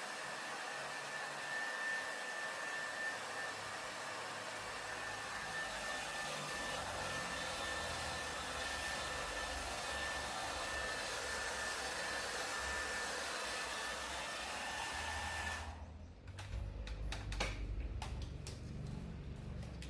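Handheld electric blower, like a hair dryer, running steadily with a thin whine, likely drying freshly washed TV parts. It switches off about 16 s in, followed by a few light knocks and clicks of handling.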